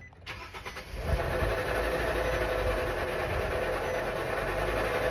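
Nissan automatic transmission running with a loud, steady mechanical noise and one held tone through it, coming up just after start and steady from about a second in. It is the sign of a mechanical failure inside the transmission that sets code P0746 (pressure control solenoid A), not an electrical fault.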